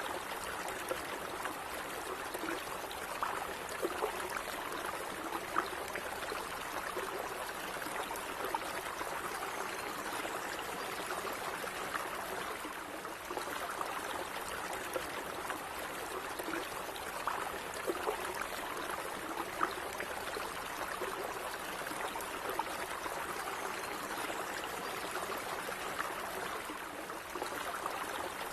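A small stream of water running steadily over stones, trickling and gurgling with light splashes throughout.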